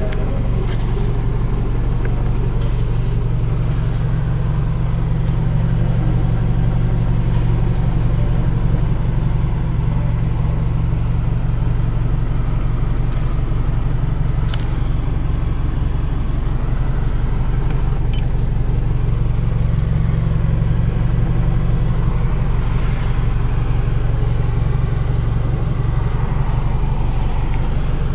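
Toyota Avensis 1AZ-FSE 2.0-litre four-cylinder petrol engine idling steadily, with one light click about halfway through.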